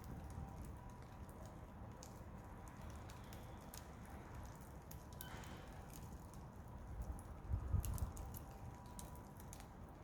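Wood fire crackling, with scattered sharp pops and snaps over a low rumble. About three-quarters of the way through, a louder low rumble swells up for about a second.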